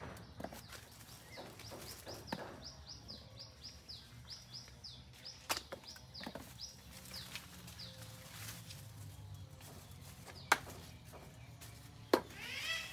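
A small bird repeats a quick falling chirp, about four a second, for the first half. A few sharp snaps come through it, the loudest near the end, as water apples are plucked from the tree into a woven bamboo tray.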